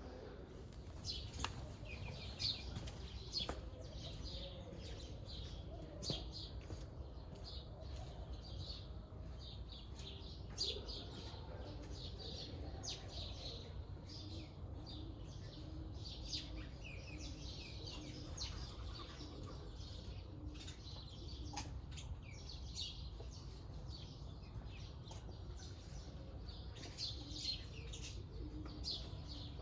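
Many small birds chirping in quick, overlapping calls throughout, over a low steady background rumble.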